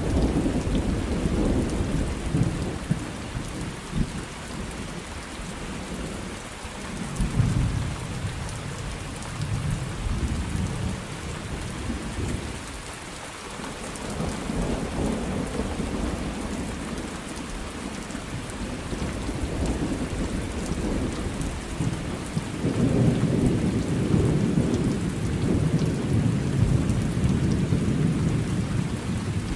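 Thunderstorm: steady rain with rolling thunder. Low rumbles swell and fade several times, the longest and loudest running from about three-quarters of the way in to near the end.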